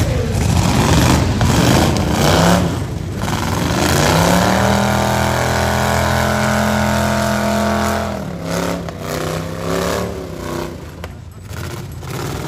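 Demolition derby cars' V8 engines revving up and down. About four seconds in, one engine climbs and holds high revs for roughly three seconds, then drops away.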